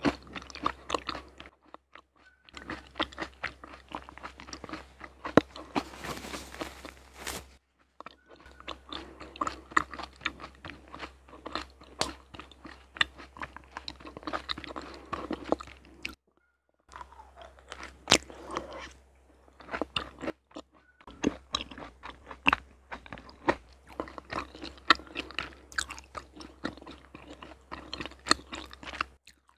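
Close-miked chewing and biting of raw honeycomb: wet, sticky crunching and clicking of the wax comb and honey in the mouth, broken by a few short pauses.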